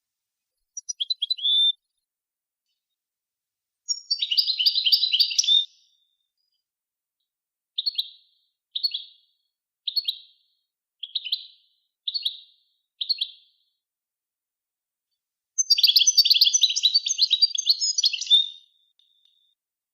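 Recorded songbird song from a song-training tape: rapid twittering phrases, with a run of six short separate chirps about a second apart in the middle and a long jumbled phrase near the end, with dead silence between the phrases.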